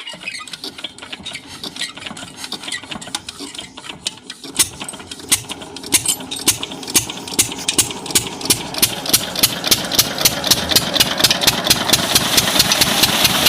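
Small single-cylinder diesel engine of a water pump catching after starting and picking up speed. Its knocking beat quickens from about three knocks a second to about five and grows steadily louder.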